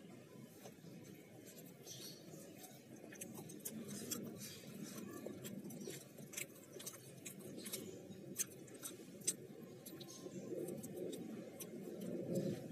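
A person chewing a fried chicken nugget (nugget geprek) close to the microphone. Many small crunches and mouth clicks are scattered throughout.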